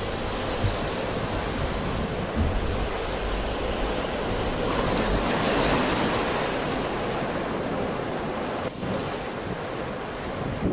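Sea waves washing onto the shore in a continuous surf, with one wave swelling and breaking a little past halfway, and wind rumbling on the microphone.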